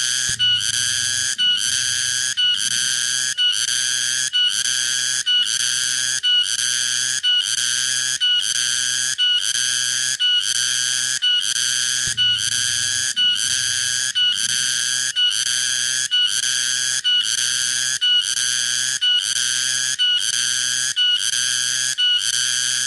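Tonggeret cicada calling: a loud, harsh, high buzz broken into even pulses, about four every three seconds, with short gaps between them.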